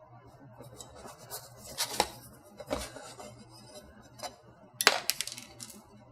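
Small clicks and knocks of hard parts being handled and pressed together while a backplate is fitted onto a graphics card and its water block, with faint rustling in between. The clicks come singly about two and three seconds in, then as a quick cluster near the five-second mark.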